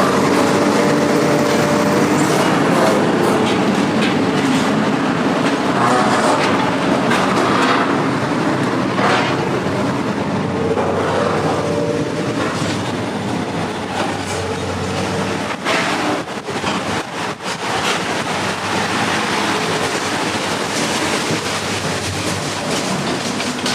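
Loud, continuous mechanical running noise with rattling and a few knocks, like a heavy vehicle on the move.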